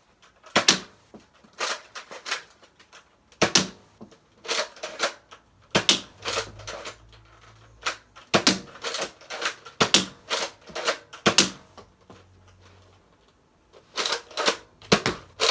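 Nerf Recon dart blaster being primed and fired over and over. Sharp plastic clacks of the priming slide and the shots come in quick clusters every second or so, with a few longer gaps, as the six-round magazine is emptied.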